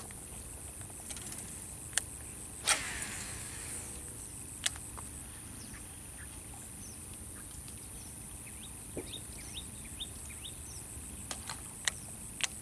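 Small birds chirping in short, high, falling notes over a steady high-pitched insect drone, with a few sharp clicks, the loudest about three seconds in.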